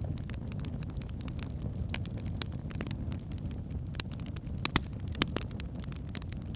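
Wood fire burning in a fireplace: logs crackling with frequent irregular sharp pops over a steady low rumble of the flames, with two louder pops about three-quarters of the way through.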